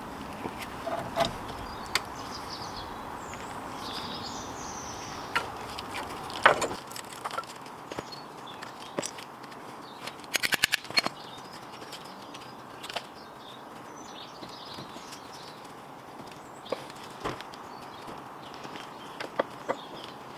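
Scattered metallic clicks and knocks of hand tools at work on a vehicle's brakes, with a quick run of about eight clicks about ten seconds in. Birds chirp faintly in the background during the first half.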